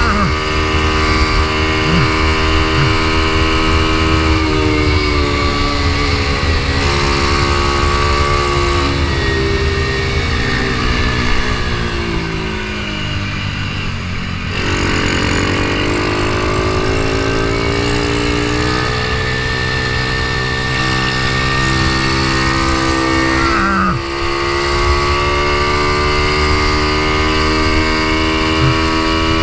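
Ohvale mini GP motorcycle engine at race pace: the revs fall for several seconds as the bike slows into a corner, then climb steadily as it accelerates out, with a quick dip at a gear change near the end. Wind rushes over the microphone throughout.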